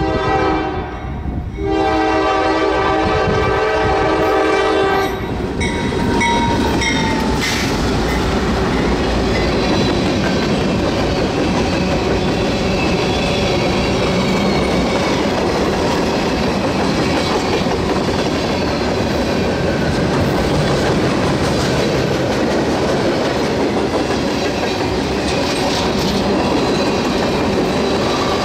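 Norfolk Southern freight train passing: its locomotive's multi-note air horn sounds, breaks off briefly and blows again until about five seconds in. Then the train rolls by with a steady rumble and wheel clickety-clack.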